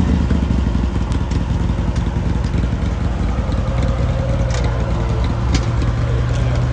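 A car engine running steadily at low revs, a deep even hum with a few faint clicks over it.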